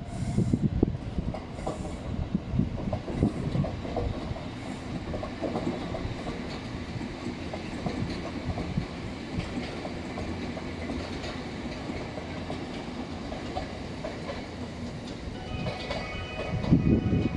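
JR East E257-series limited express electric train running past and pulling away, its wheels rumbling and clacking over rail joints and points. The clacking is heaviest in the first couple of seconds, then the rumble settles and fades. Music comes in near the end.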